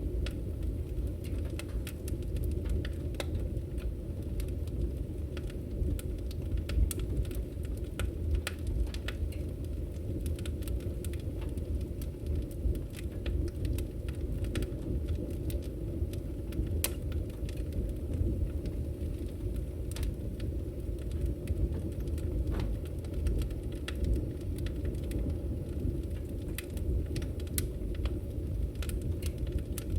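Firewood burning in a fireplace: a steady low rumble of the fire with frequent, irregular sharp crackles and pops from the burning wood.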